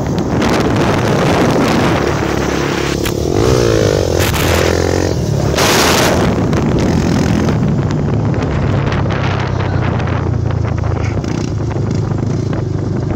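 Honda Tornado single-cylinder motorcycle engine, enlarged to 299cc, running steadily at cruising speed, with wind rushing over the microphone. Another vehicle sweeps past about four to six seconds in.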